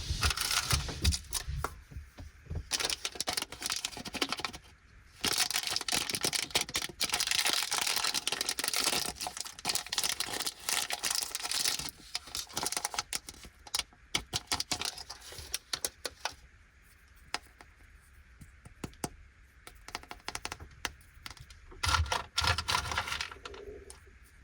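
Plastic candy packaging crinkling and crackling as it is opened, in dense stretches for the first half. Then come scattered light clicks of hard sweets being set down, and another short burst of crinkling near the end.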